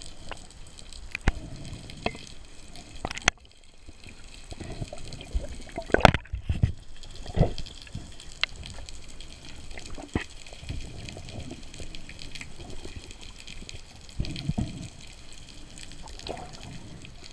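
Sea water moving and gurgling, broken by scattered sharp clicks and a few louder swells.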